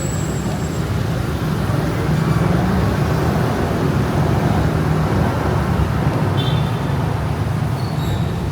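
Steady city road traffic: car and bus engines rumbling and tyres running past on a busy street.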